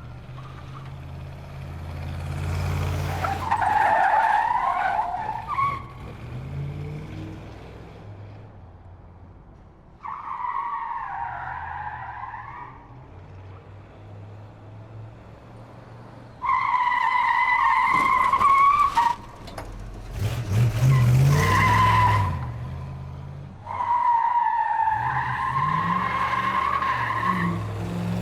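Car tyres squealing through a series of about five skids, each a wavering high squeal lasting one to three seconds, over the car's engine running and revving.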